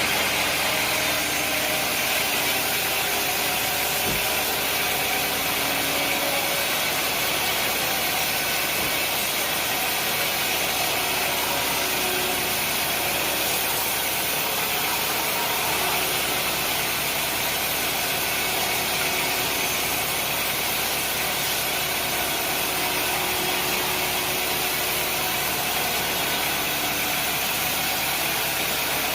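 Sawmill machinery running steadily: a constant, even mechanical noise with no breaks, strongest in the high range.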